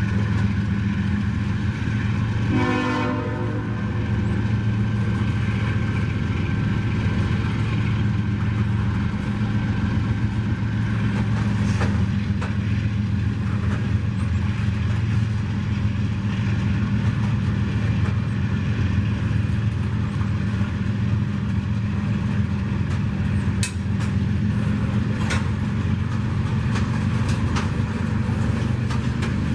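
Train's diesel locomotive running with a steady low hum. A short horn note sounds about three seconds in, and a few sharp clicks and clanks come from the wheels and cars later on.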